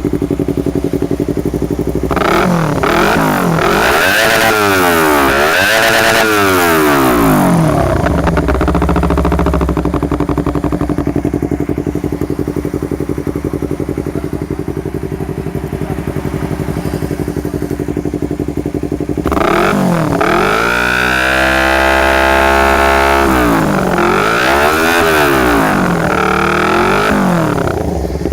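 Yamaha R25 parallel-twin engine through an R9 GP stainless full-system exhaust with no dB killer, idling and revved by hand. A cluster of quick rev blips comes about two seconds in, then a steady idle, then a longer held rev about twenty seconds in, followed by more quick blips near the end.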